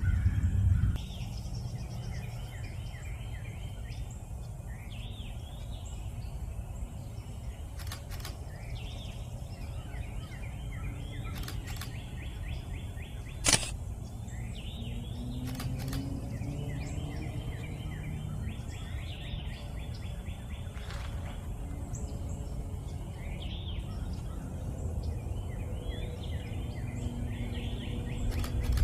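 Several songbirds singing, repeated short chirping phrases over a steady low outdoor rumble, with one sharp click about halfway through.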